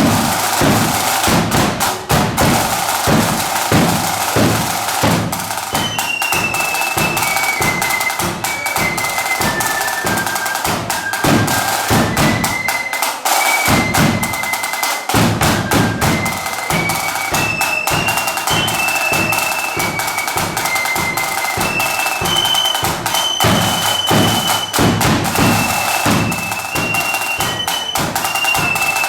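Marching flute band playing: snare and bass drums beat from the start, and flutes come in with a high melody about six seconds in. The bass drum drops out for a couple of seconds midway.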